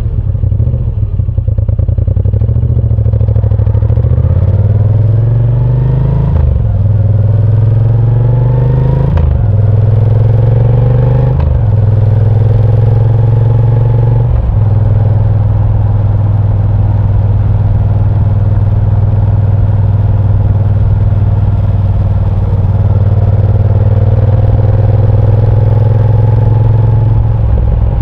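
Moto Guzzi V7 Sport's transverse V-twin pulling hard through the gears, its pitch rising and dropping sharply at each of about four upshifts in the first fifteen seconds, then running steadily at cruising speed.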